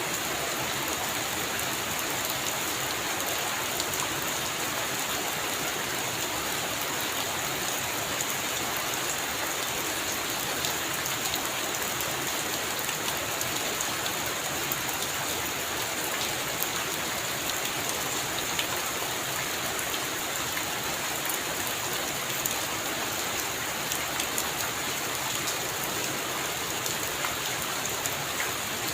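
Heavy rain falling steadily on a roof: a dense, even hiss with many small drop ticks and no thunder.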